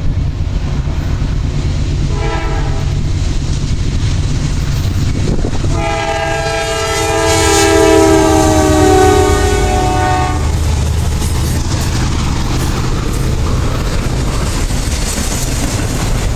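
Diesel locomotive horn of a Norfolk Southern freight train: a short blast about two seconds in, then a long blast from about six to ten seconds, over the steady rumble of the locomotives. The train then rolls by, wheels clattering over the rail joints.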